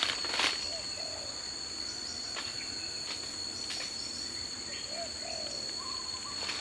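Forest ambience with a steady, high-pitched drone of insects. A few short rising-and-falling animal calls come in around one, five and six seconds in. A sharp crackle sounds about half a second in.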